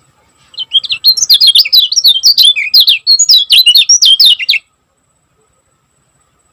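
A kecial kuning white-eye singing a fast, tightly packed run of high chirping notes for about four seconds, then stopping abruptly.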